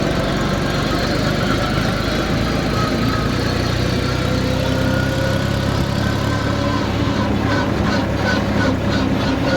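Tractor engine running steadily, its pitch drifting slightly. In the last couple of seconds a rhythmic clatter of about four beats a second comes in over it.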